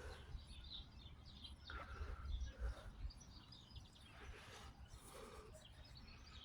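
Faint birdsong in a park, many small chirps scattered throughout, over a steady low rumble.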